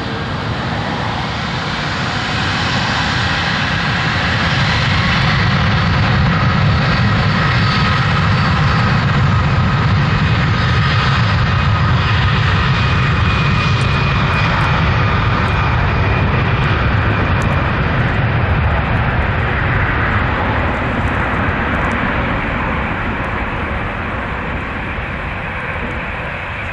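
Airbus A340-600's four Rolls-Royce Trent 500 jet engines at takeoff power as the airliner departs. The engine noise builds over the first few seconds, stays loudest for several seconds, then slowly fades, with steady high whining tones above the rumble.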